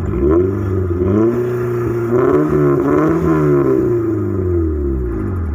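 Proton Satria 1.3 injection four-cylinder engine revved through its aftermarket exhaust in several quick blips, the pitch rising and falling each time. It then sinks back toward idle near the end.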